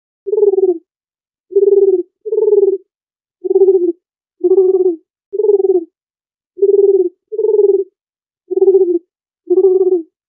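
Dove cooing: ten short, low coos, mostly in pairs, with even pauses between them.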